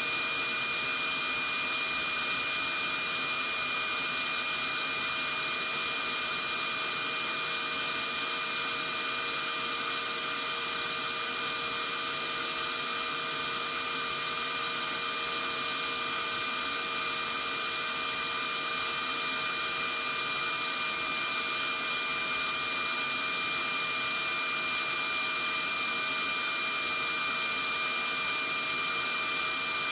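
Vacuum cleaner running steadily: an even rush of air with a fixed high motor whine over it, unchanging throughout.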